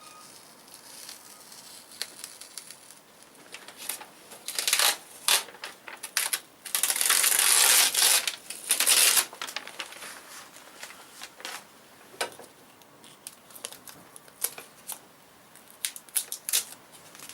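Crinkling and tearing handling noises with scattered clicks, and a longer, louder ripping sound from about seven to nine seconds in.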